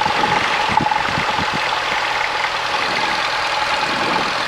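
Cessna 172's piston engine running steadily at low taxi power, a droning hum with hiss, along with a thin steady tone that stops near the end.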